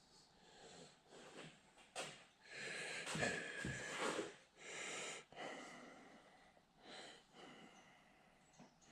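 Quiet, irregular rustling and handling sounds, with a sharp click about two seconds in and a louder hissy stretch a little after three seconds.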